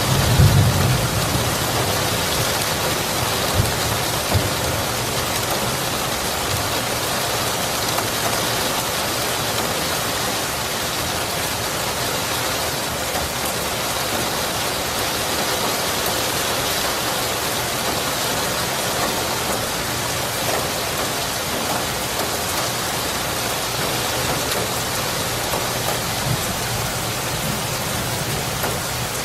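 Steady, heavy rainfall hissing on surfaces. A low thunder rumble dies away in the first second.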